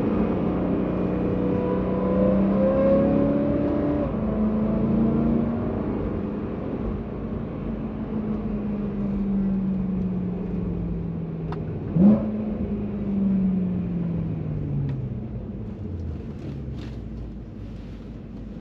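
BMW E92 M3's 4.0-litre S65 V8 through an M Performance exhaust, accelerating with rising pitch for the first few seconds, then running on with slowly falling pitch. About twelve seconds in a short, loud throttle blip lifts the pitch, after which the engine winds down and fades.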